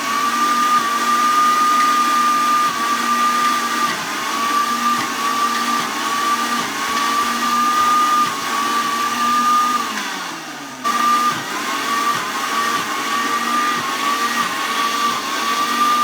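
Electric blender motor running, its pitch dipping and recovering again and again as it churns a thick mixture of beans, salami and pickle. About ten seconds in it winds down to a stop, then starts up again almost a second later.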